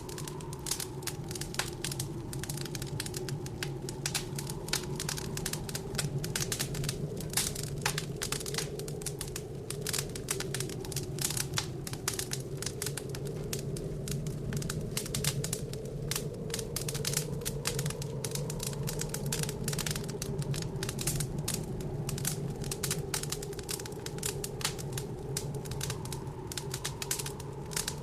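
Wood fire crackling and popping in a fireplace, a dense run of sharp snaps, over a steady low howl of blizzard wind that slowly wavers in pitch.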